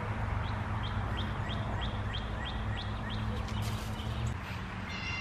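A songbird singing a run of about ten quick, high, repeated chirps, about three a second, followed near the end by a short buzzy call, over a steady low hum.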